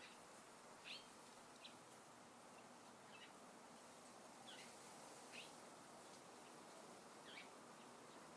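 Faint, short bird chirps, about six of them at irregular intervals, each a quick downward note, over a faint steady hiss of outdoor background noise.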